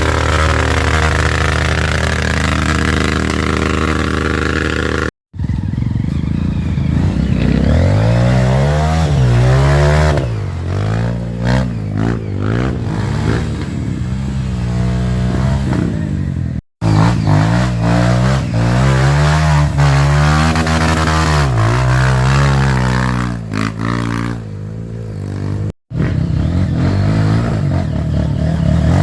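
Off-road motorcycle engines revving up and down again and again, the pitch rising and falling, as if the bikes are being worked through mud. The sound drops out briefly at three cuts.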